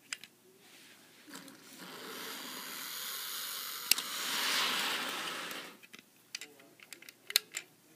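Hornby model train with freight wagons running along the track: the motor and wheel noise grows louder to a peak about four and a half seconds in, then drops away suddenly about a second later. A few sharp clicks, the loudest near the end.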